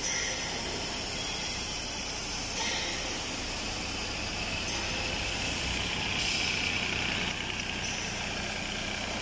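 Small Kubota diesel engine of a crawler mini excavator running steadily, with higher-pitched tones above it shifting a few times.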